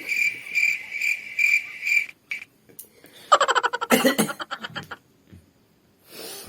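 A high, thin chirp repeating about twice a second, which stops a little over two seconds in. It is followed by a quick rattle of clicks and then a short, louder noisy burst.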